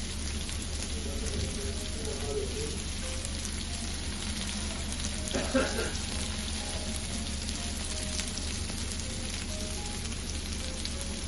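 Chicken skewers sizzling on an electric raclette grill, a steady sizzle with a low steady hum underneath and a brief louder sound about halfway through.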